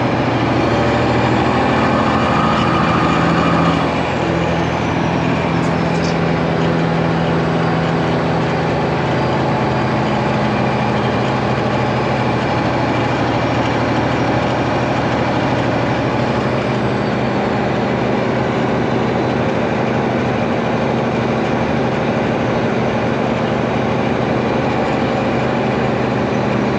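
Heavy truck's diesel engine running steadily under way, a little louder for the first few seconds and then easing off slightly.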